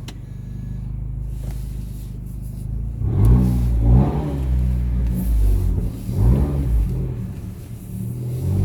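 2019 Honda Accord Sport's 2.0-litre turbocharged four-cylinder, running with no muffler or catalytic converters and a PRL intake. It idles steadily for about three seconds, then is revved in several short blips that rise and fall in pitch.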